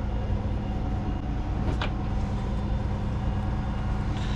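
Steady low engine hum, typical of an engine idling, with one faint click about two seconds in.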